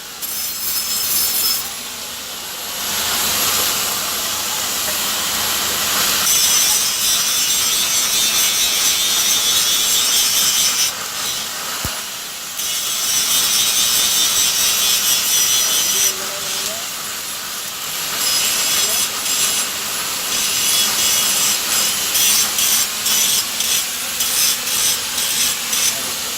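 Rasping noise of a tool scraping or cutting, running in long stretches with short breaks, then turning into quick back-and-forth strokes near the end.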